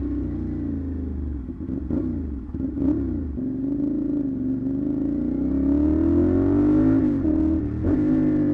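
CFMoto 450SR parallel-twin motorcycle engine through an SC Project aftermarket exhaust while riding: the revs fall with a couple of short pops between about two and three seconds in, then climb steadily under acceleration until about seven seconds in, where a gear change briefly drops them before they rise again.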